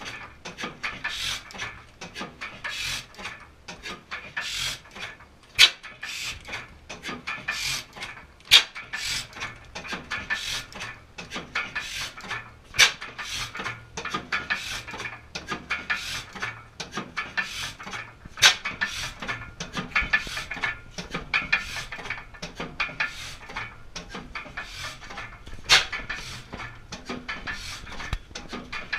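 An 1889 Crossley gas engine running on spark ignition with a snifter-valve carburettor: a rapid, steady clatter of mechanism, with a few louder sharp cracks at irregular intervals.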